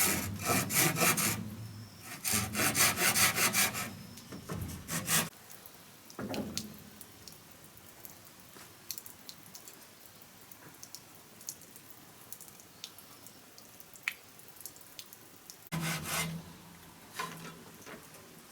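A hand tool cutting wood with quick rasping strokes. It comes in two bursts of rapid strokes in the first four seconds, a few single strokes after that, a long pause, and a short burst near the end.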